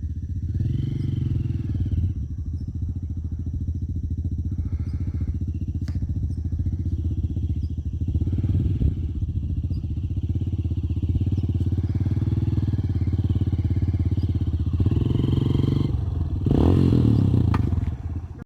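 Honda single-cylinder four-stroke trail motorcycle engine running steadily under way, with a brief louder rev near the end.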